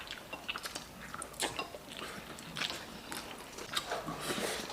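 Someone chewing a mouthful of braised beef short rib, with scattered light clicks and crunches.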